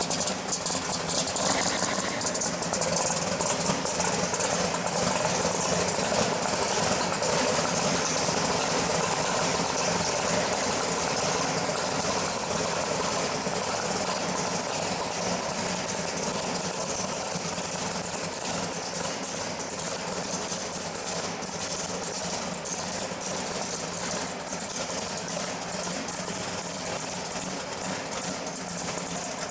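Twin-turbocharged aluminum 615 big-block Chevy V8 of a 1969 Camaro drag car running at a steady idle, a little louder in the first few seconds before settling.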